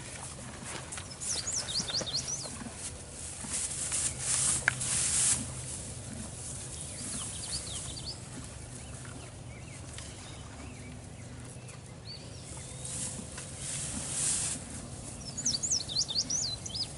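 A songbird singing short phrases of quick, high chirps three times, with two louder rustling whooshes in between and a low steady hum underneath.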